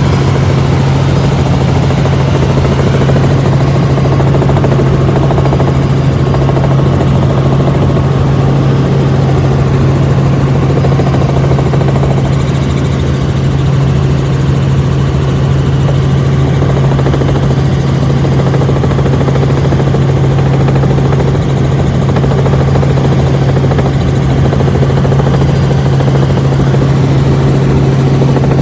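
Helicopter in flight heard from the cabin: the steady, loud drone of the rotor and engine with a strong low hum, unchanging throughout.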